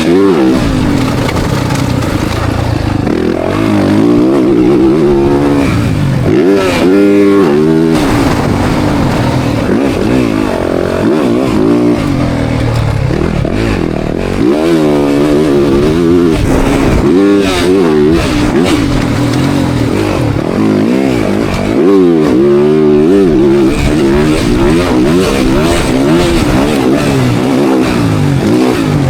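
Motocross dirt bike engine revving up through the gears and falling back over and over as it is ridden around the track. The pitch climbs and drops again every few seconds.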